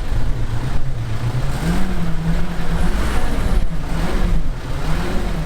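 A motor vehicle's engine running, its pitch rising about two seconds in and then wavering up and down, over a heavy low rumble.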